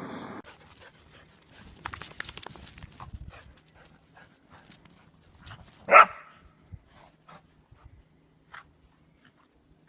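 A dog gives a single short, high bark about six seconds in, with light scuffling and clicking sounds before it.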